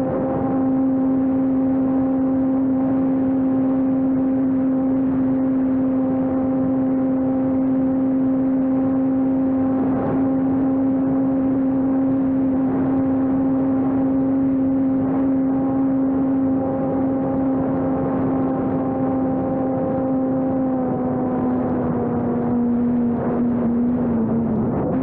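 Electric RC airplane's brushless motor and propeller running steadily with a constant whine over a rush of air. Near the end the pitch sags a little as the throttle eases back.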